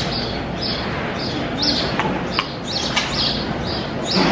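A small bird chirping over and over, about two short high chirps a second, over a steady background din.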